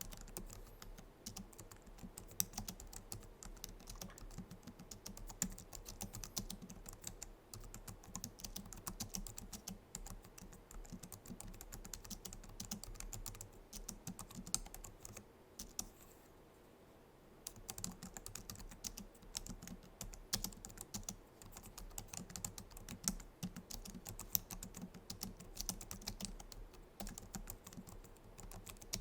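Continuous fast typing on a Logitech MX Keys keyboard, its low-profile scissor-switch keys clicking softly. The typing stops briefly about halfway through, then resumes.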